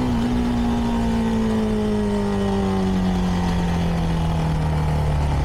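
CFMoto 300NK's single-cylinder engine running through its stock exhaust, its note falling slowly and steadily as the bike slows.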